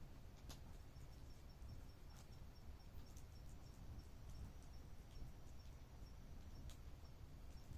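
Faint night-time insect chirping: a thin high pulse about four times a second, starting about a second in and stopping near the end. It sits over low rumbling background noise, with a few sharp faint clicks.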